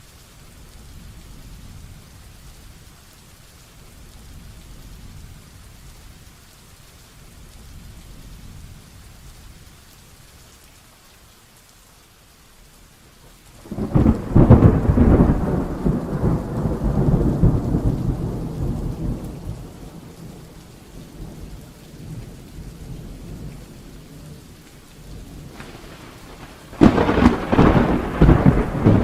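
Steady rain falling, with two loud claps of thunder: one about halfway through that rolls on for several seconds before fading, and another shortly before the end.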